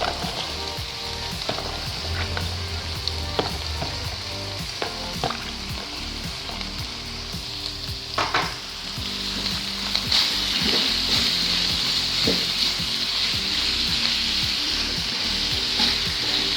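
Food sizzling in a hot pan as it is stir-fried, with a utensil knocking and scraping against the pan every few seconds. The sizzle grows louder about ten seconds in.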